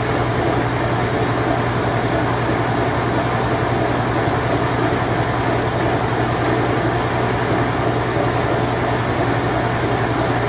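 Whirlpool Imperial Clean Touch washing machine of about 1988–1992 running its spin cycle: a steady low hum over an even rushing noise, with no change in speed.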